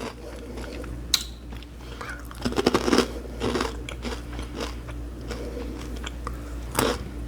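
Close-up crunchy chewing of a dry snack mix of sago and rice flakes, in irregular crunches with a few sharp clicks, busiest about three seconds in and again near the end.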